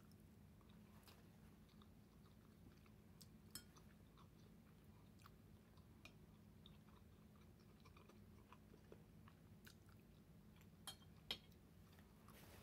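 Faint chewing of a mouthful of jollof rice, with scattered soft mouth clicks and a few sharper clicks, over a low steady hum.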